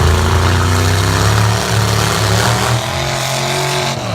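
Lifted pickup truck engine held at high revs, its pitch wavering a little, then falling sharply right at the end.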